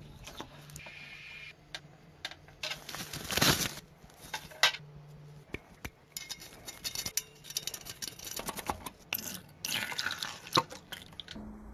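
Small hard parts being handled: scattered light clicks, taps and clinks, with a louder rattle about three and a half seconds in.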